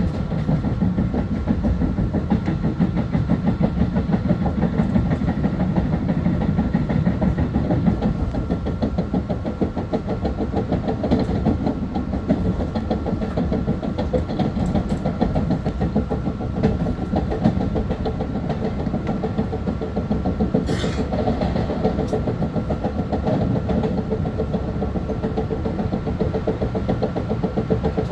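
Long Island Rail Road M3 electric multiple-unit train running, heard from on board: a steady rumble of wheels on rail and traction motors with a constant hum. A brief high hiss cuts in about twenty-one seconds in.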